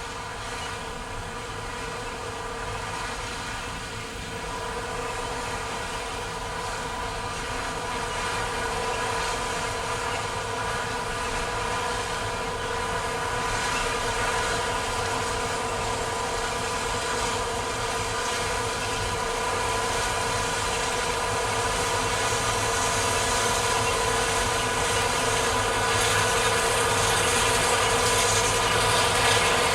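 Combine harvester running steadily, a machine drone with a high steady whine, slowly growing louder.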